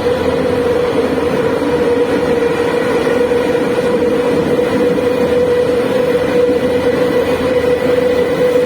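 Moscow Metro train running between stations, heard from inside the car: a steady rumble of the wheels on the rails with a constant whine over it.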